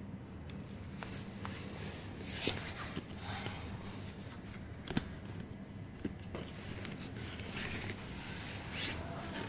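Hand-tool and metal handling noises while the scooter's disc-brake caliper is being shifted and adjusted: a few sharp clicks and short scrapes, over a low steady hum.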